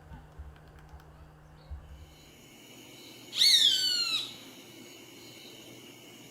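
A bird gives one loud, harsh call about three seconds in, lasting about a second and falling in pitch.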